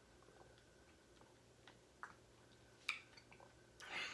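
Faint chewing at the table: a few scattered soft mouth clicks and smacks over a near-silent room, with a short breathy rise near the end.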